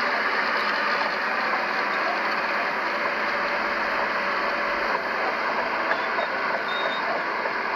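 Heavy earthmoving machinery running steadily, a diesel engine note with no break or change in load.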